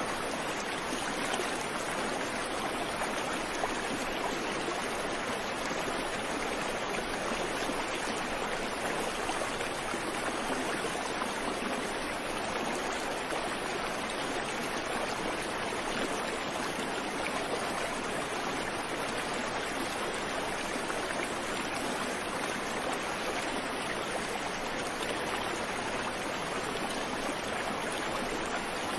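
A creek's water running over rocks in a steady, even rush.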